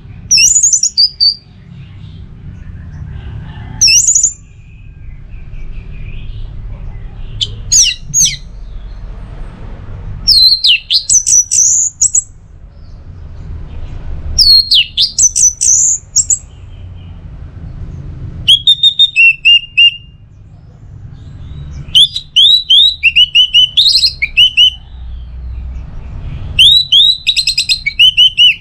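Orange-headed thrush singing, short varied phrases every few seconds: sweeping whistled notes and quick runs of repeated notes. A steady low hum runs underneath.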